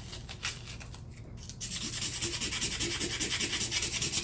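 Rusty folding-knife blade being scrubbed on 120-grit sandpaper to take the rust off. A few light handling clicks come first; then, about a second and a half in, a steady rasping rub of quick back-and-forth strokes starts.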